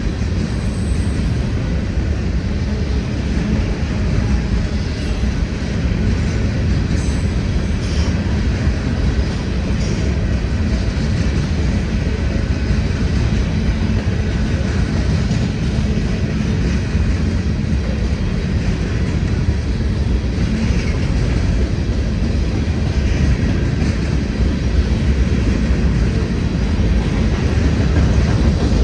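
A freight train rolling past: a steady, loud, low rumble of railcar wheels running on the rails.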